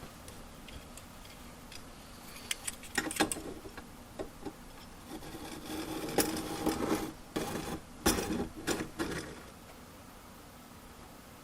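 Irregular clicks, taps and short scrapes of steel plate and tools being handled on a workbench, clustered in the middle and ending about two seconds before the end.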